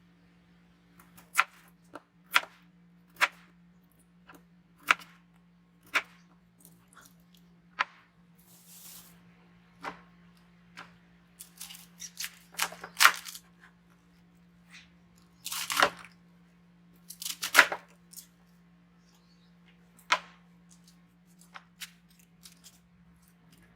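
Vegetable preparation by hand: irregular knife clicks and taps on a cutting board, with a few longer tearing, scraping sounds around the middle, over a steady low appliance hum.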